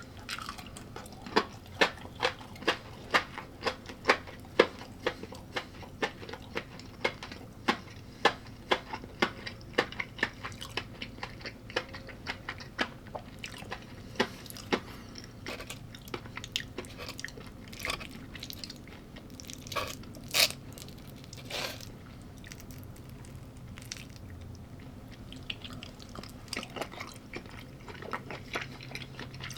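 A person chewing crunchy food, with sharp crunches about two a second for the first dozen seconds, then slower, fainter chewing with a few louder crunches later on.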